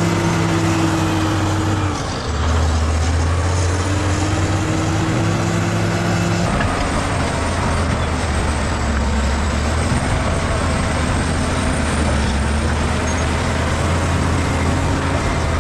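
Bulldozer's diesel engine running loudly and steadily. Its note dips briefly about two seconds in and shifts again around six and a half seconds in.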